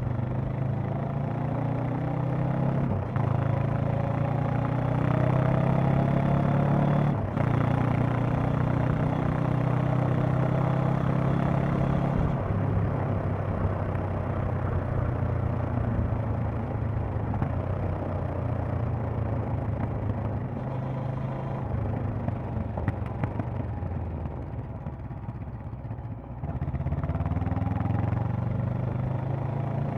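Honda CB500X's parallel-twin engine and exhaust on the move: pitch climbing under throttle with two brief breaks at gear changes about three and seven seconds in, then easing off at about twelve seconds into a quieter, rougher stretch, before the throttle opens again near the end.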